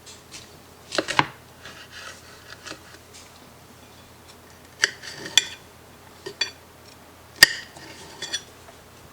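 Kitchen utensils and dishes clinking and knocking in an irregular series of sharp hits, some ringing briefly. The loudest hit comes about seven and a half seconds in.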